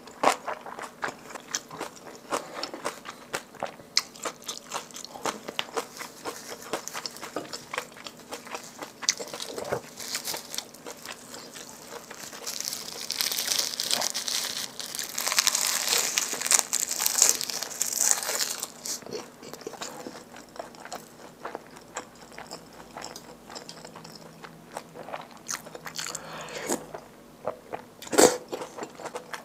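Close-miked chewing and eating mouth sounds, with a louder stretch of crisp crinkly crunching in the middle as roasted seaweed (gim) wrapped around rice is bitten and chewed. A single sharp click near the end.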